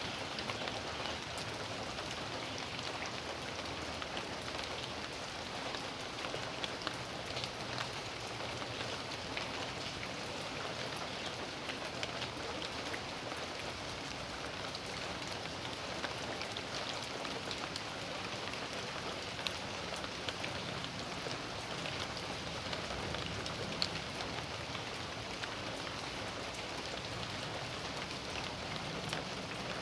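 Steady rain falling on a backyard, an even hiss with many individual drops ticking on surfaces.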